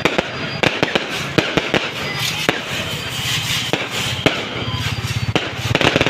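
Fireworks and firecrackers going off in a dense, irregular string of sharp bangs and crackles, several a second, under a steady low hum.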